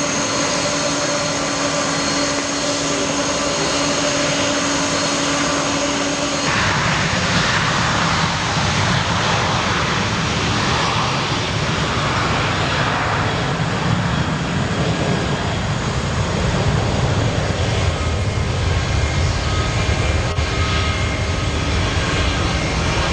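Three-engine jet airliner's engines running: a steady whine with distinct tones for the first six or so seconds, then an abrupt cut to a deeper, rougher rumbling jet noise.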